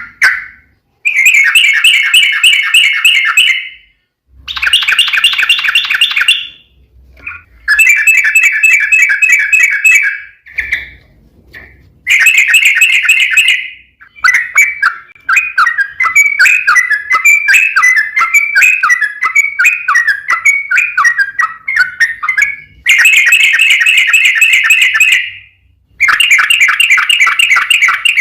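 Yellow-vented bulbul (trucuk) singing: loud bursts of fast repeated chattering notes, each a couple of seconds long with short gaps between, and one longer run of varied notes in the middle. This is a long rapid-fire 'ropel' song of the kind that bird keepers play as a lure to set other trucuk birds singing.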